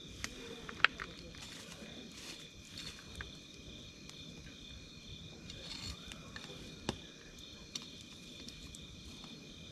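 Campfire crackling with scattered sharp pops, the loudest about a second in, over steady insect trilling at two high pitches.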